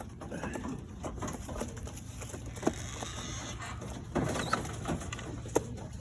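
Doves cooing in low, soft calls, with a few light clicks and knocks among them.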